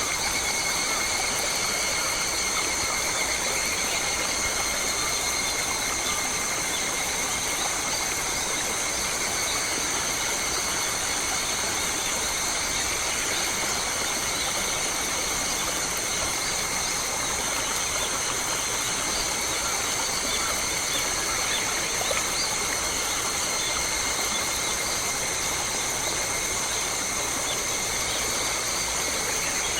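Forest ambience: a steady high-pitched drone holding several pitches at once over an even hiss, with faint scattered chirps.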